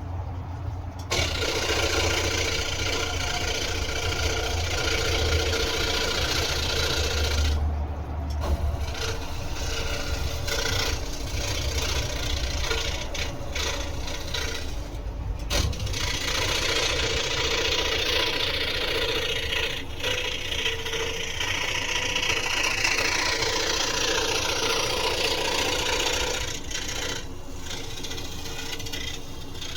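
Scroll saw running and cutting through wood: a steady motor hum under a rasping, rattling cutting noise, with brief breaks in the cutting about 8 and 15 seconds in.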